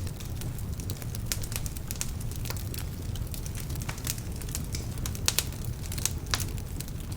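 Wood fire burning in a fireplace: a steady low rumble of flames with irregular sharp crackles and pops from the logs, several louder pops a little past the middle. Some of the logs are damp, which adds to the crackling.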